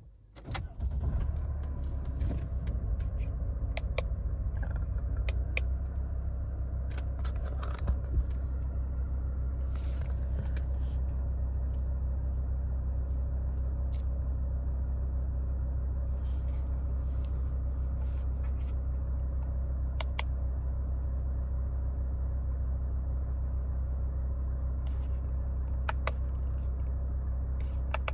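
2003 Mercedes-Benz W211's engine starting about a second in and then idling steadily, with a few light clicks.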